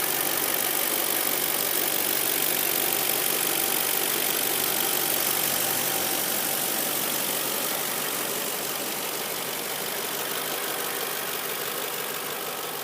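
2006 Audi A8's engine idling steadily and evenly, easing slightly in level in the second half, with no unusual noises: a smooth, healthy idle that the seller says sounds good.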